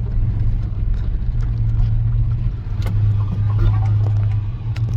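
Chevrolet S10 pickup driving, its engine and road noise heard as a steady low drone from inside the cab.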